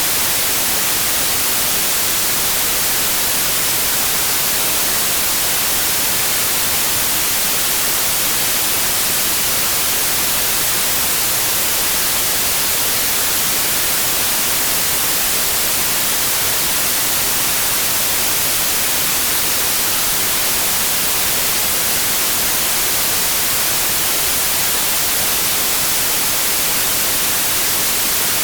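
Steady white noise: an even hiss, strongest in the treble, that never changes.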